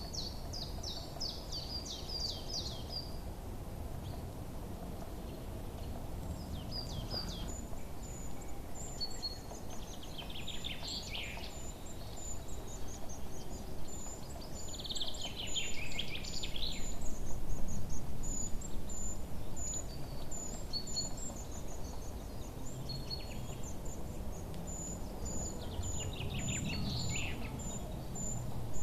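Songbirds chirping and singing in short phrases, with a fast, high-pitched series of repeated chirps running through much of it, over a steady low outdoor background noise.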